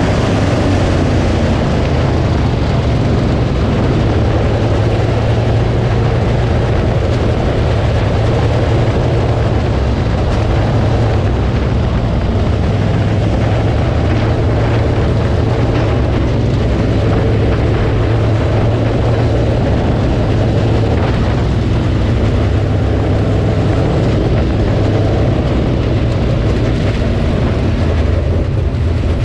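Dirt late model race car's V8 engine running hard at a steady pitch, with a loud low drone and heavy wind and road noise.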